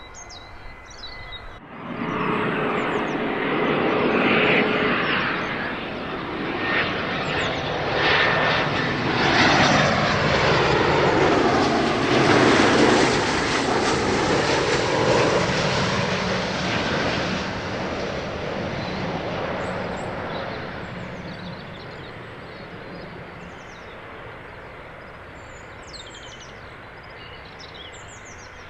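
Small business jet landing, its engines running at approach power, growing louder for about ten seconds as it passes close by, then fading away down the runway.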